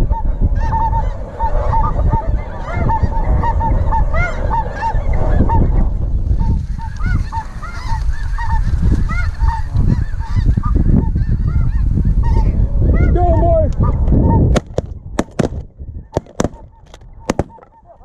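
A flock of snow geese calling, many short high honks overlapping, over strong wind rumbling on the microphone. About three-quarters of the way through, the calling and rumble drop away abruptly and a quick series of sharp clicks follows.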